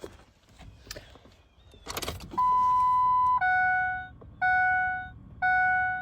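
Dashboard warning chime of a Ford 7.3 Power Stroke diesel truck. A clatter about two seconds in is followed by a steady beep held for about a second, then a chime that repeats about once a second, three times, each fading away.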